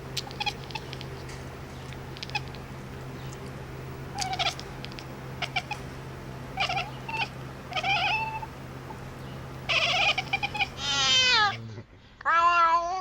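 A cat calling: a run of short meows and chirps over a steady low hum, then a longer meow that slides down in pitch. After a short break comes another drawn-out meow.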